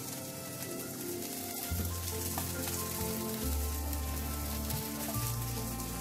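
Stuffed okra shallow-frying in a little oil, sizzling steadily in the pan, mixed with background music of sustained low notes that change every second or two.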